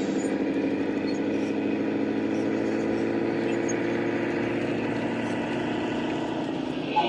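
RC model truck running with a steady, engine-like drone, with a sharp click near the end.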